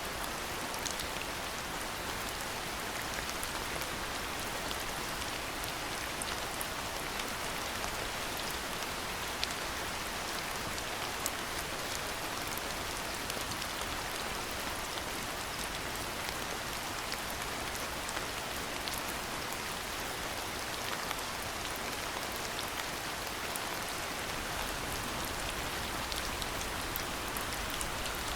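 Steady rain falling, a constant hiss scattered with many small, sharp drop ticks.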